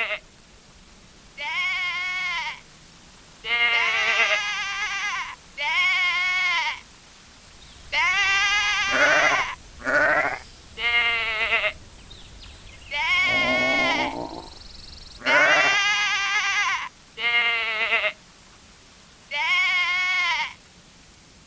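Sheep bleating: a series of about ten separate bleats of roughly a second each, with short pauses between them, one lower and rougher than the rest near the middle.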